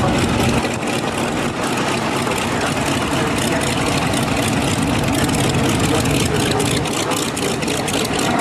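Piston aircraft engines running with a steady drone and a fine, fast pulsing.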